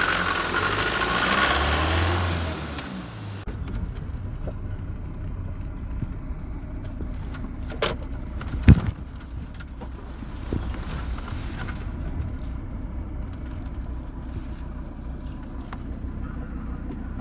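A Ford Transit van's engine running close by as the van pulls away, rising in pitch. After about three and a half seconds the sound changes abruptly to the steady low rumble of a car's engine and road noise heard inside the cabin while driving, with a couple of sharp knocks around eight to nine seconds in.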